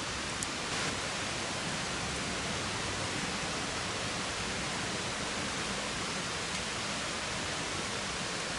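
Steady, even hiss of outdoor background noise, with one faint tick about half a second in.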